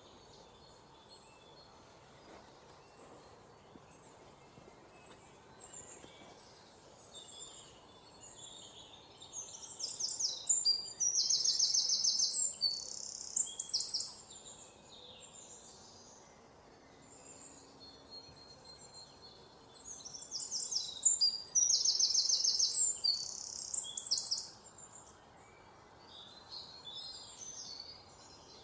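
Songbirds chirping over a faint steady background hiss. A loud, high-pitched song of rapid trilled notes comes about ten seconds in and again about twenty seconds in, with fainter calls in between.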